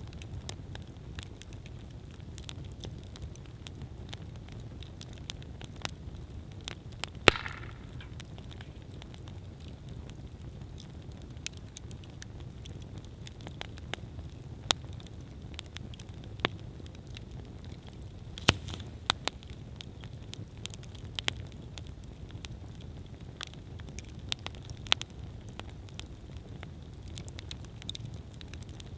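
Wood campfire burning with a steady low rumble and scattered sharp crackles and pops. One louder pop about seven seconds in is followed by a brief hiss.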